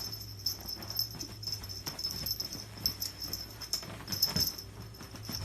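A dog's sounds over a steady low hum, with scattered small clicks.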